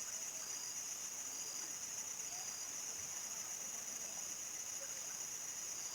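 Field crickets chirring at nightfall, a steady high-pitched chorus, with a fainter, evenly repeated chirp underneath.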